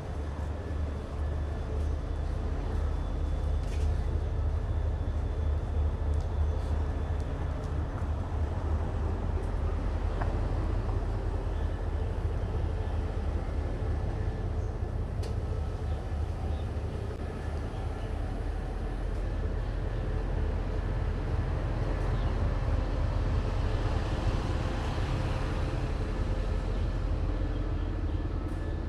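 Diesel train engine running with a steady low rumble.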